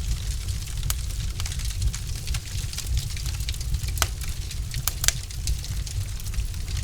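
Wood fire burning in a fireplace: a steady low rumble with scattered sharp crackles and pops of the burning logs, a few louder snaps about one, four and five seconds in.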